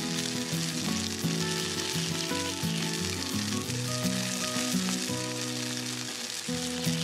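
Sliced onion, green chillies and mint sizzling steadily as they fry in a tiny aluminium pot while being stirred, under background instrumental music.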